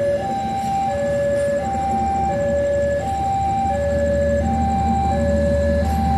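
Electronic two-tone warning alarm alternating between a high and a low tone, each held about two-thirds of a second, over a low rumble that grows stronger about halfway through.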